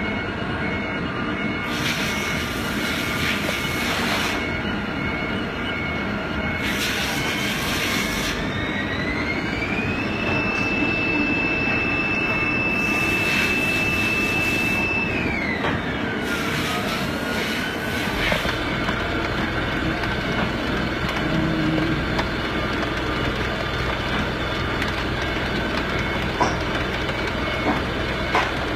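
Haas ST-20SSY CNC lathe running through a turning and milling cycle with steady machine noise. Partway through, a drive whine rises in pitch, holds for about five seconds, then drops back. Several spells of hiss of a few seconds each come and go, and a low hum sets in after the whine falls.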